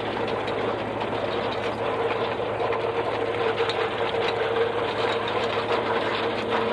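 Farmall 400 tractor running steadily, belt-driving a Blizzard silage chopper whose mechanism spins with a steady whir and a fast, even rattle.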